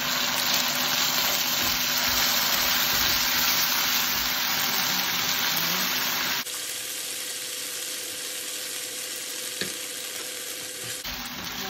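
Diced onions sizzling in a hot nonstick wok as canned sardines in tomato sauce are poured in. About six seconds in, the sizzle drops abruptly to a quieter hiss with a faint steady hum.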